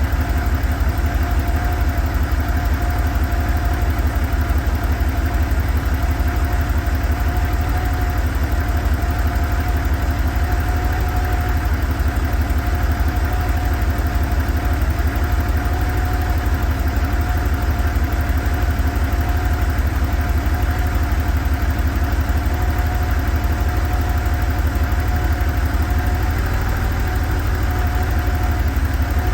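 1987 Porsche 911's air-cooled flat-six idling steadily, warming up after a cold start.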